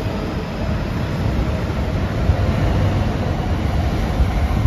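MTR East Rail Line R-train, an electric multiple unit, pulling out of a station and passing close by at speed. A steady, loud rumble of wheels on rail with irregular knocks and clatter.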